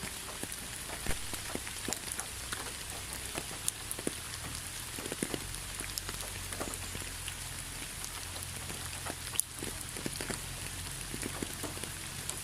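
Steady rain falling, with many separate drops striking close by at irregular moments over the even hiss of the downpour. A faint low steady rumble sits underneath.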